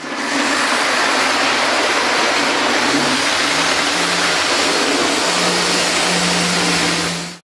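Diesel engine running steadily, a dense hissing noise with a low hum that comes in about three seconds in; it starts and cuts off abruptly.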